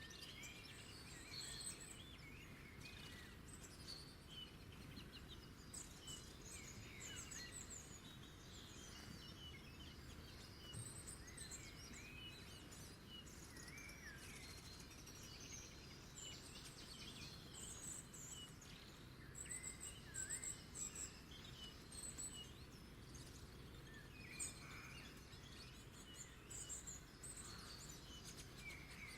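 Several wild birds singing and calling faintly, short chirps and quick up-and-down whistles overlapping, over a steady low background hiss.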